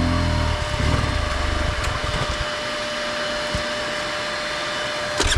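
Enduro dirt bike engine running low under a steady rushing noise, its engine note swelling sharply right at the end.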